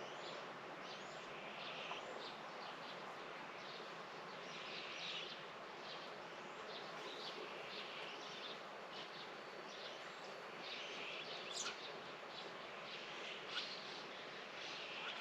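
Outdoor morning ambience with small birds chirping on and off over a steady faint hiss.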